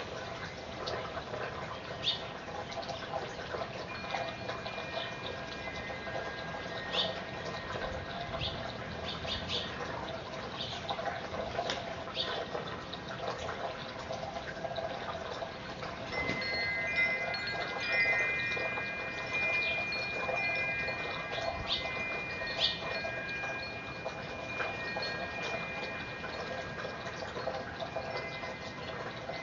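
Chimes ringing, several long tones held together and strongest through the second half, with short high chirps coming and going.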